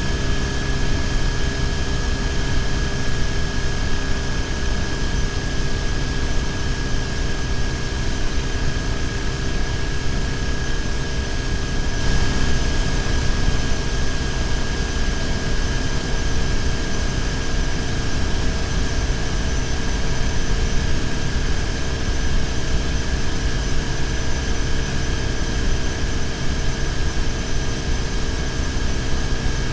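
BMW R1150GS flat-twin boxer engine running steadily at cruising speed, under a constant rush of wind and road noise. The hiss turns a little brighter about twelve seconds in.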